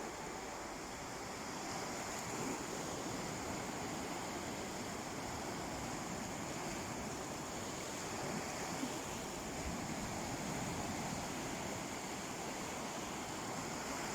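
Calm sea surf washing steadily onto a beach, with some wind.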